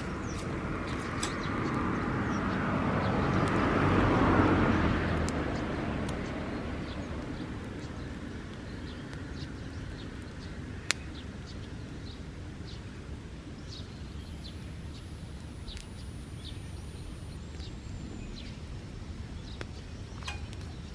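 Bonfire of dry grass crackling, with scattered small pops and one sharp pop about eleven seconds in. A broad rushing swell rises and fades over the first six seconds.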